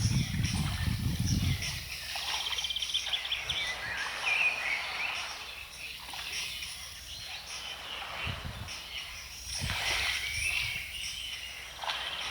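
Small birds singing: a fast high trill and short warbling phrases, over a faint steady outdoor background. A low rumble fills the first second and a half.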